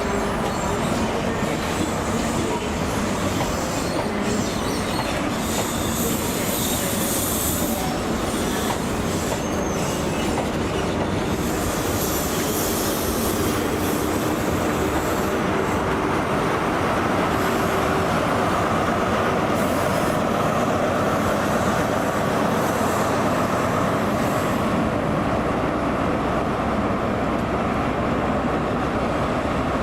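A train running through the station on jointed and curved track, a continuous rumble and clatter of wheels on rail. High wheel squeal comes twice in the first half.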